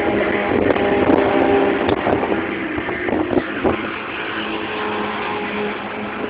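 Cars driving at speed on a race circuit, their engines loud and droning, easing off after about four seconds as they pull away.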